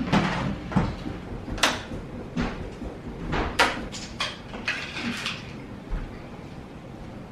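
Scattered knocks, clicks and clatters of kitchen things being handled, moved and set down during food preparation, a dozen or so separate short sounds with a brief busier patch of clatter about four to five seconds in.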